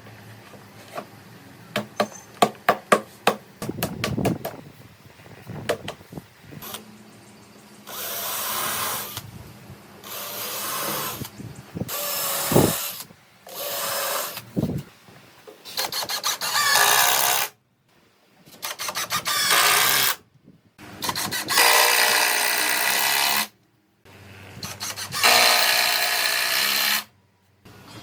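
Handheld power tool run in short bursts, switched on and off eight times for one to three seconds each. Before that comes a quick run of sharp knocks.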